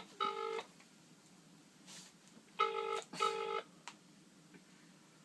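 British telephone ringback tone heard over a phone's speaker while the call waits to be answered: the double 'ring-ring' of two short buzzy tones, once ending just after the start and again about two and a half seconds in.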